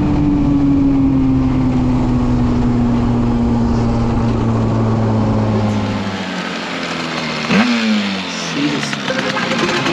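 Tuned 94cc two-stroke Yamaha Aerox scooter engine under way, holding a high steady note that sinks slowly in pitch. The note falls away about six seconds in as the throttle comes off, and there is a quick blip of revs about a second and a half later.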